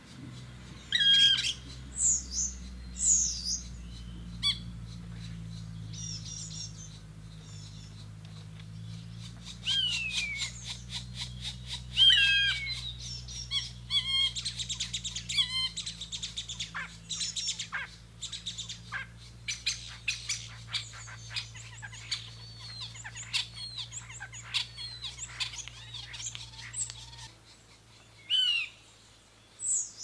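Birds calling: several falling whistled calls and high chirps, with a stretch of rapid, busy chirping in the middle. A steady low hum runs underneath and stops near the end.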